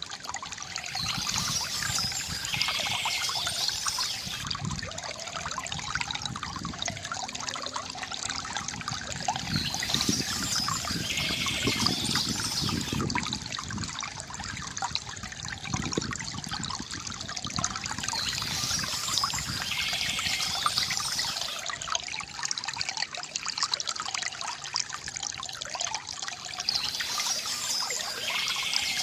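Water trickling and gurgling from a bamboo fountain. A short burst of bird chirping returns about every nine seconds, four times in all.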